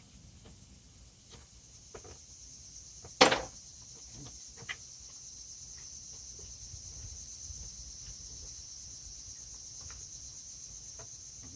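Insects chirring steadily at a high pitch, with one sharp click a little over three seconds in and a few fainter ticks from hand tools at work.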